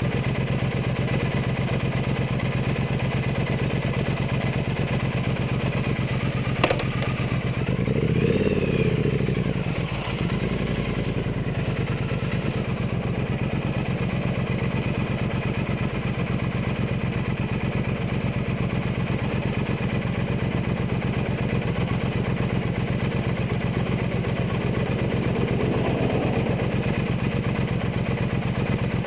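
Triumph Bonneville T120's 1200 cc parallel-twin engine running through an aftermarket Zard exhaust at steady, low revs. A single sharp click comes about six and a half seconds in, then a short rise and fall in revs, and another gentle swell near the end.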